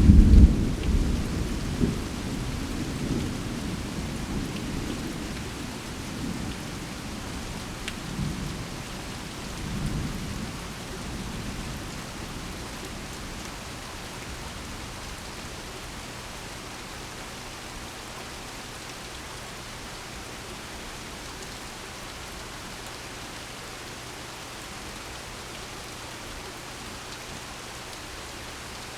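A loud thunderclap right at the start, rolling into a deep rumble that swells again twice and dies away over about twelve seconds. Steady rain falls throughout.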